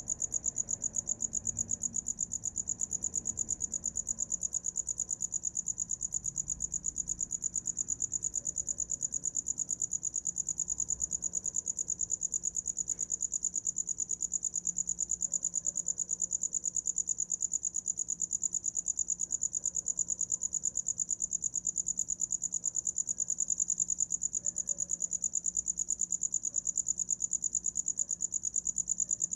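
A cricket chirping without a break: a high-pitched, even trill of rapid pulses.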